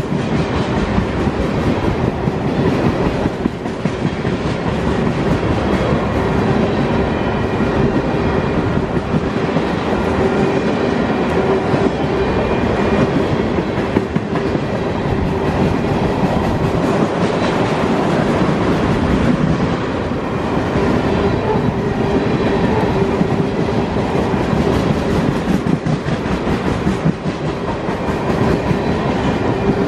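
Freight train of ethanol tank cars rolling past at close range: a steady rumble with wheels clacking rapidly over the rail joints, over a thin steady ringing hum.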